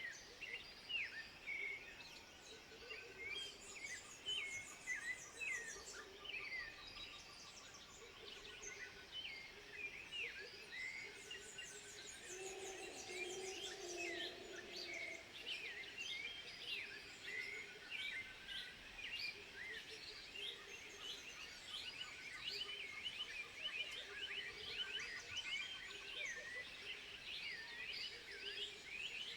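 A dense chorus of animal calls: many quick, high chirps and whistles overlapping throughout, with a longer, lower call around the middle.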